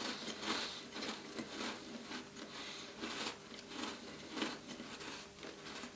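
Close-up chewing of a big mouthful of Tim Tam chocolate biscuits, about two to three chews a second.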